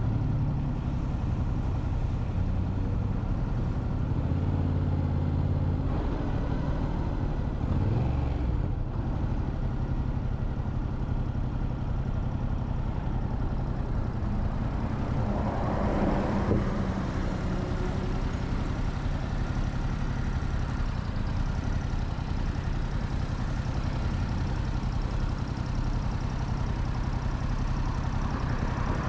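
Motorcycle engine running steadily under way, with wind and road noise over it. The engine note shifts briefly about a quarter of the way in, and a short rush of noise swells up about halfway through.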